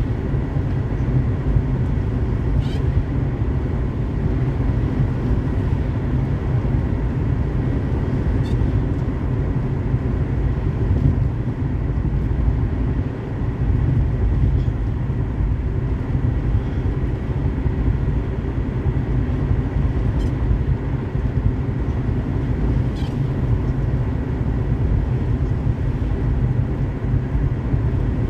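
Car driving on a highway in the rain: a steady low rumble of tyre and engine noise, with a few faint, short high-pitched squeaks now and then.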